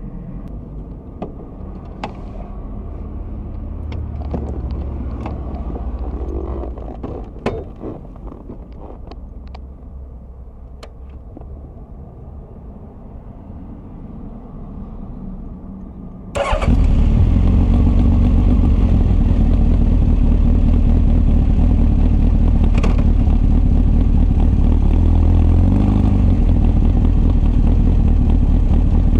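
Honda CB1300 inline-four motorcycle with Keihin FCR carburettors and a Wyvern full exhaust: first a low rumble with scattered sharp clicks, then about halfway through the engine sound jumps suddenly to a loud, steady running note at a constant speed.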